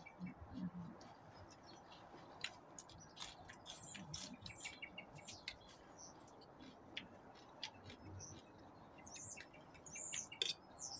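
Small birds chirping in short, high notes and brief trills, more of them near the end. Over them come sharp, wet clicks of chewing close to the microphone.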